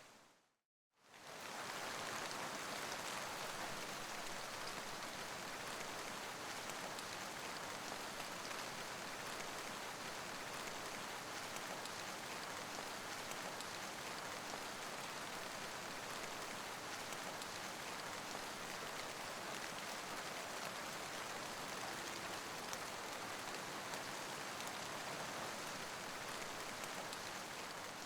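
Steady rain ambience: an even hiss of falling rain. It fades to a moment of silence just under a second in, then fades back in and runs on evenly.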